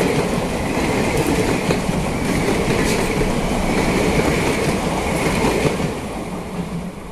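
Passenger train coaches rolling past on the rails, a steady rumble with scattered wheel clicks. The noise fades near the end as the last coach draws away.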